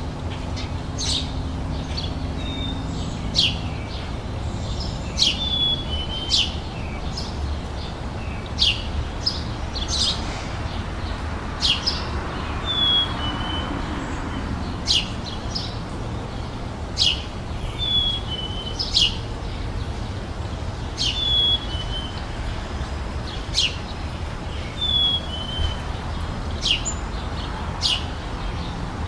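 Songbirds chirping outdoors: many short, sharp chirps come one after another, and a brief falling note recurs about every two seconds. A steady low rumble sits underneath.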